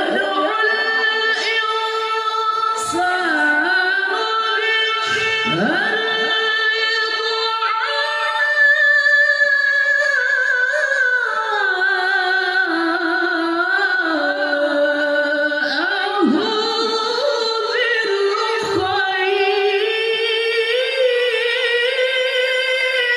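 A qori's high voice in melodic Quran recitation (tilawah), holding long, ornamented notes through extended phrases. The pitch sinks lower around the middle and climbs high again near the end.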